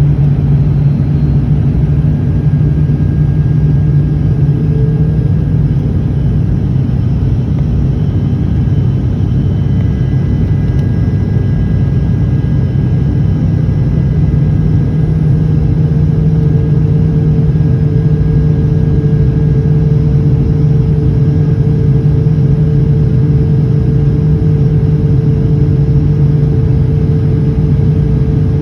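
Airliner cabin noise during the approach: a loud, steady engine drone with a strong low hum, plus a higher hum that shifts slightly and then holds a fixed pitch from about halfway through.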